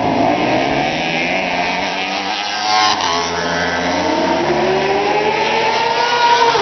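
Superbike racing motorcycles passing and accelerating, with an engine note rising steadily in pitch over the second half as a bike pulls away.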